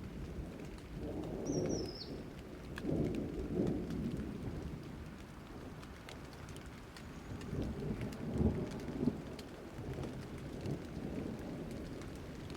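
Thunderstorm: steady rain with low rolling thunder that swells about a second in and again past the middle. A brief high chirp sounds near the start.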